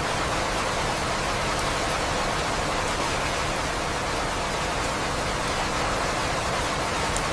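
Steady rainfall: an even hiss of rain, with a few faint drop ticks.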